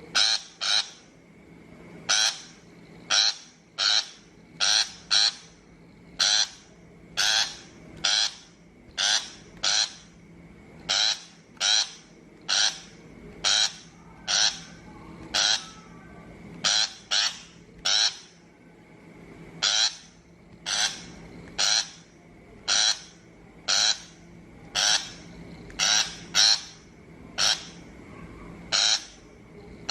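Shrike giving short, harsh calls, repeated just over once a second.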